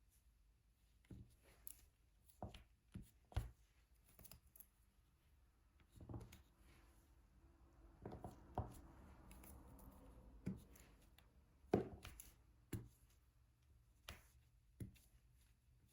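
Light, irregular taps and clicks of diamond painting by hand: a drill pen picking up resin drills and pressing them onto the sticky canvas. A soft rustle comes around the middle.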